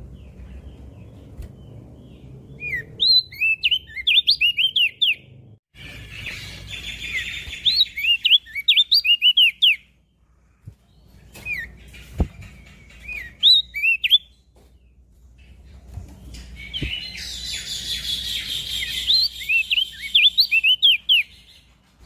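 Opior jambul (crested white-eye) singing in four phrases of quick, high, chirpy notes that sweep up and down, each phrase lasting a few seconds, with short pauses between them.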